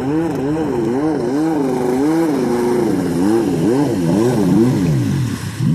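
Watercraft engine revving up and down about twice a second, its pitch rising and falling with each swing. Near the end the pitch drops sharply as the throttle comes off.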